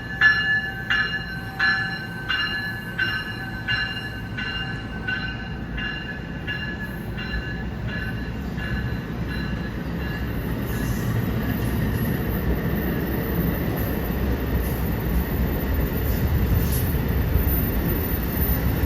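A train on the Northeast Corridor at a station platform. It starts with rhythmic metallic ringing pulses, about one and a half a second, that fade away over the first half, then gives way to a steady low rumble that grows louder.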